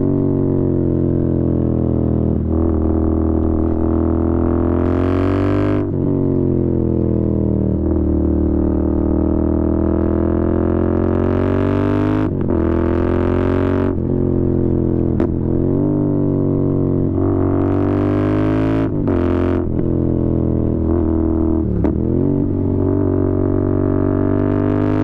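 Royal Enfield Interceptor 650's parallel-twin engine running at a steady speed through its exhaust, a deep even drone. The pitch dips briefly now and then, and there are a few short bursts of hiss.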